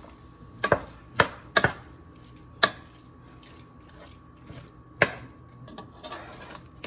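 Cooking utensil knocking and scraping against a frying pan while ground meat is stirred as it browns: several sharp knocks, most in the first three seconds and one more about five seconds in.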